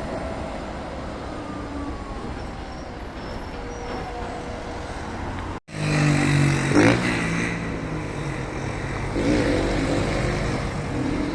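Road vehicles in street traffic: a steady hum with road noise. About halfway through the sound cuts out for an instant, then returns louder with a low, steady drone from a vehicle close by.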